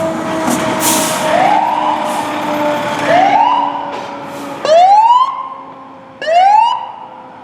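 Fire apparatus siren sounded in short whoops: about every one and a half seconds the pitch climbs quickly, then coasts down slowly, the last two whoops the loudest. Short hissing bursts come in between.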